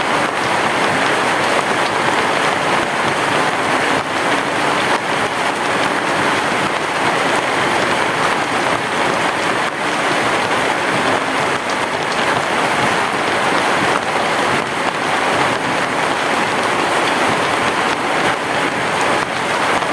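Heavy rain falling steadily, a dense even patter of many drops.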